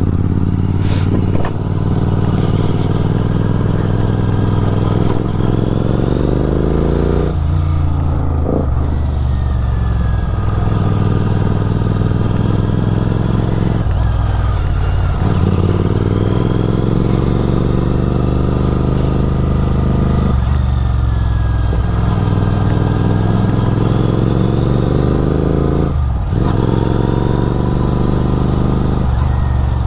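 Motorcycle engine running through an SC-Project aftermarket exhaust while riding, its note climbing slowly under throttle and breaking off briefly about every six seconds before picking up again, with a steady rush of wind.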